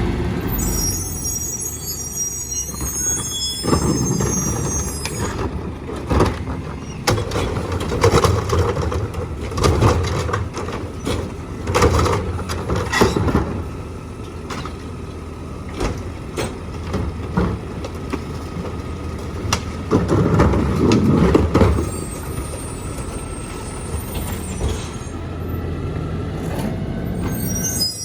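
Mack MRU rear-load garbage truck working its route: the diesel engine runs steadily under repeated clanks and bangs of cans and the McNeilus packer body, with a high squealing hiss of air brakes near the start and again near the end.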